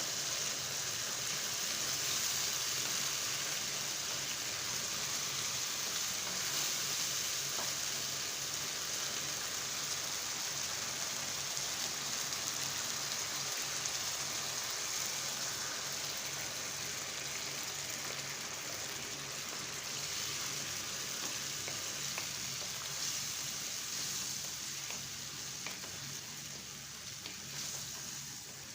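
Food sizzling steadily in a hot pan, with a few faint ticks, dying down near the end.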